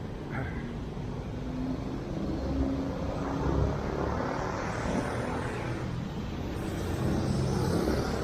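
Road traffic: motor vehicle engines running and passing, with a steady low rumble that swells about three and a half seconds in and again near the end.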